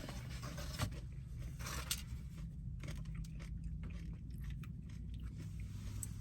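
A person chewing and biting food close to the microphone, with short crunchy bites at irregular intervals.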